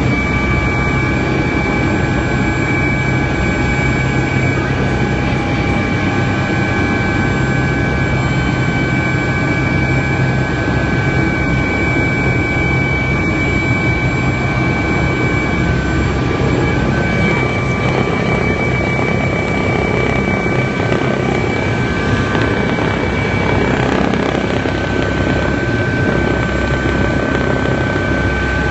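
Helicopter in flight: steady, loud engine and rotor noise, with a continuous low hum and several high whining tones from the turbine and gearbox.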